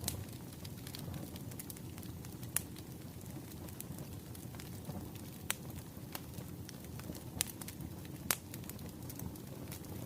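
Wood fire burning, with a steady low rumble and irregular crackles and pops; the sharpest pops come about two and a half, five and a half, seven and a half and eight seconds in.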